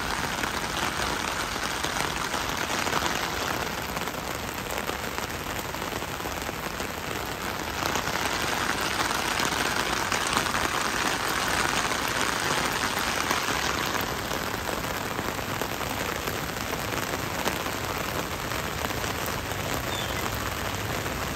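Heavy tropical rain pouring onto a wet paved street, a steady dense hiss with no let-up.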